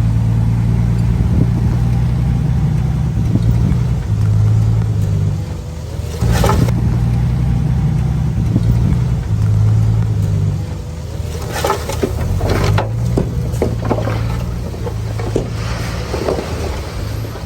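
Heavy diesel engine of a tracked bulldozer running under load, its note rising and falling as it works, with clanks and metallic squeals at several points.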